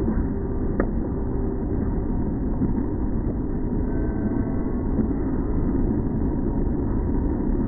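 Steady car engine and road noise of a vehicle in motion, dull and muffled, with one short click about a second in.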